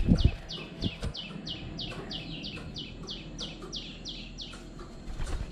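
A bird calling in a steady run of short, high, falling chirps, about four a second, stopping shortly before the end. A couple of low thumps come right at the start.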